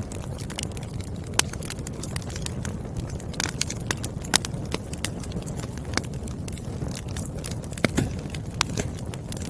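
Wood fire burning: frequent crackles and sharp pops from the burning logs over a steady low rumble of flame, with a few louder pops scattered through.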